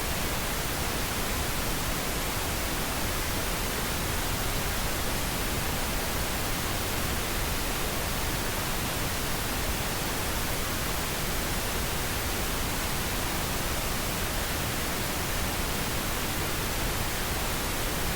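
Steady white noise: an even, unchanging hiss across the whole range of pitch.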